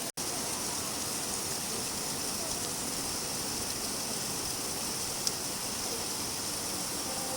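Steady rain falling, an even hiss of many drops with no rhythm. The sound drops out for an instant just after the start, and there is one faint tick about five seconds in.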